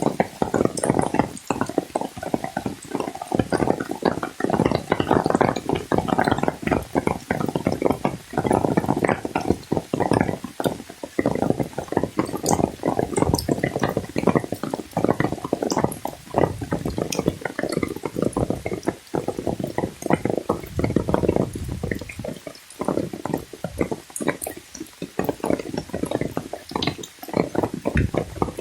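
Water splashing and churning continuously at close range, a dense, uneven wash of small splashes.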